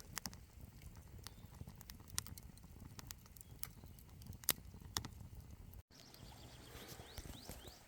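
Faint, irregular crackling and popping of a wood campfire, sharp single snaps scattered every fraction of a second.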